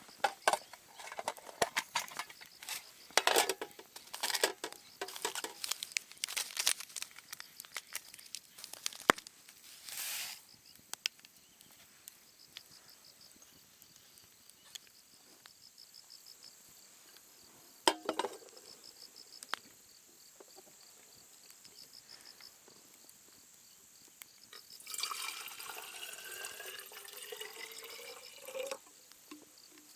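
Scattered clinks and knocks of things being handled, then liquid poured into a container for about three seconds near the end, its pitch rising as the container fills. A faint, evenly pulsing high chirping of insects runs underneath.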